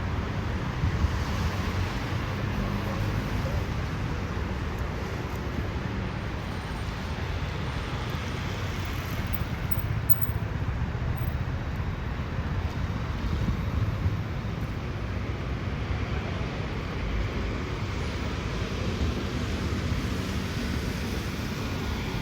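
Steady city street ambience: traffic running past, with a low rumble of wind on the microphone.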